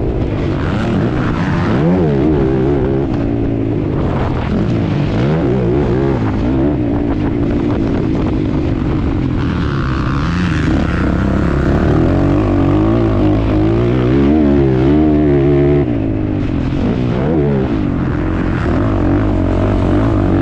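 ATV (quad bike) engine being ridden hard, revving up and backing off again and again, so its pitch keeps climbing and dropping every second or two.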